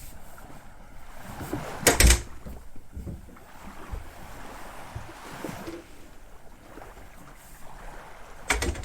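Wind and water sounds of a sailing yacht under way, with wind buffeting the microphone; two loud short bursts, about two seconds in and near the end.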